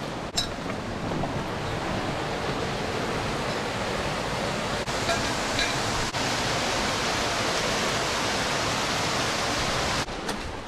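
Steady rush of falling water from a waterfall, cutting off abruptly near the end.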